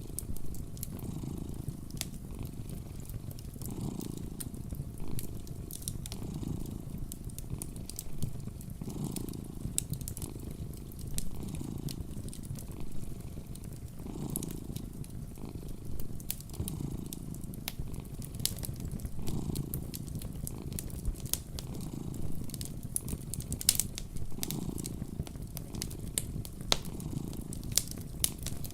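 A cat purring steadily, the purr swelling and fading with each breath every two to three seconds, with the pops and crackles of a wood fire scattered over it.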